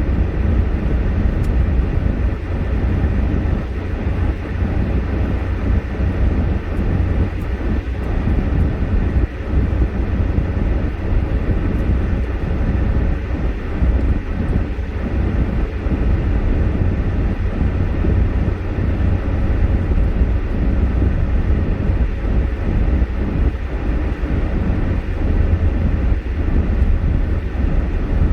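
A car driving on snowy streets, giving a steady low rumble from the engine and road with a faint steady hum over it.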